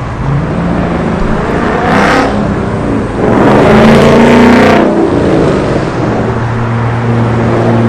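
Car engine revving briefly about two seconds in, then accelerating hard with a loud rising exhaust note for about a second and a half, then settling into a steady low drone.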